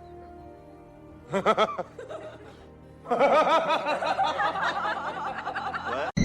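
Quick, repeated pitched laughing over background music: a short burst about a second in, then a longer run of laughs from about halfway.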